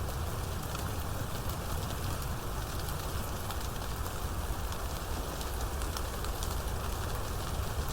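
Steady rain falling, with dense fine pattering of drops and a low, even rumble underneath.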